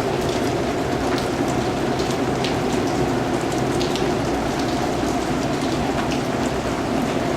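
Steady rain falling, a dense even patter with scattered individual drops standing out.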